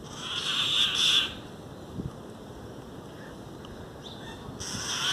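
Harsh, raspy bird screeches. One lasts about a second at the start, and another begins near the end.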